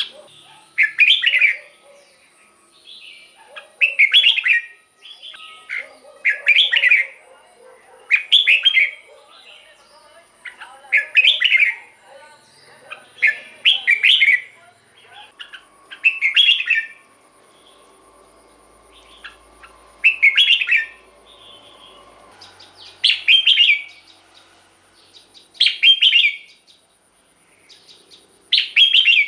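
Red-whiskered bulbul singing: short, loud, whistled song phrases repeated every two to three seconds, with softer chattering notes in between.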